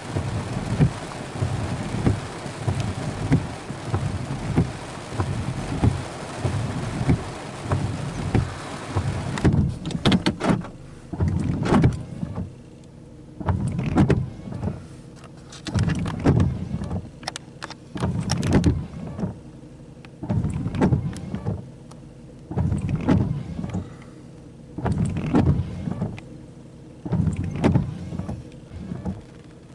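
Heavy steady rain that eases about nine seconds in. After that come repeated swelling sweeps roughly every two seconds.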